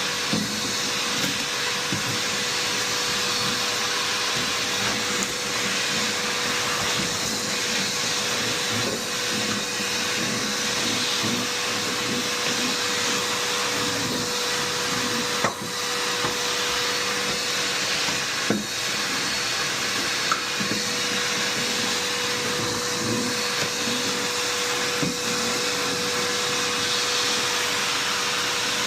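Vacuum cleaner running steadily, with a few light knocks and bumps along the way.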